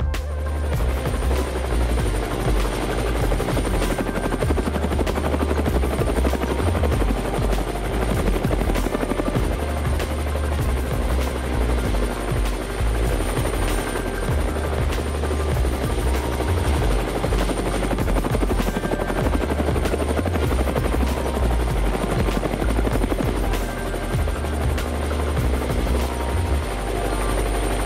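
Small DC motor spinning a homemade toy helicopter's rotor, making a steady whirring buzz with a thin high whine over it.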